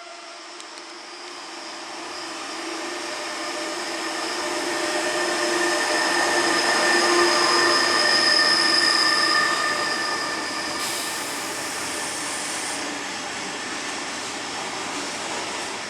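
Train passing through a station, its rumble building to a peak about halfway through and then easing off, with a steady high-pitched squeal from its wheels on the rails.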